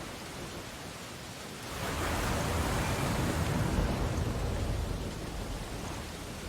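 Ocean waves on a beach: steady wash of surf, with one wave breaking about two seconds in, swelling louder for a couple of seconds and then draining away.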